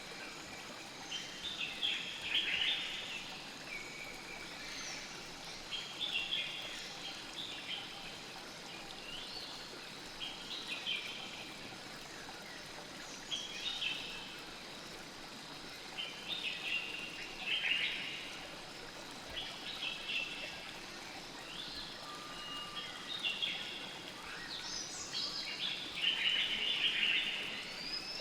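Birds chirping in short repeated phrases every couple of seconds, over the steady rush of a flowing river.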